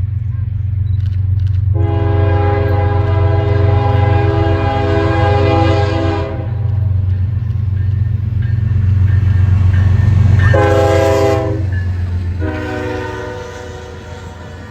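Diesel freight locomotive sounding its several-note air horn, a long blast, then a short one, then another, over the steady deep rumble of the passing train, which fades near the end.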